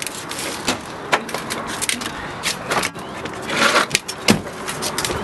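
The hood of a 2001 Lincoln Town Car being released and opened: a string of clicks and knocks, with a louder scrape a little before four seconds in.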